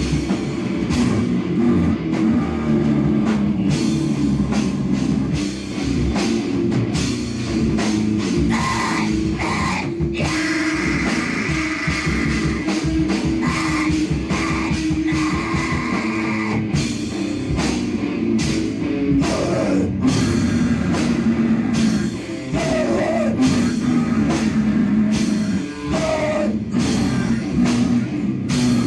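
Live band playing loud, distorted rock or metal-style noise music over fast, dense drumming.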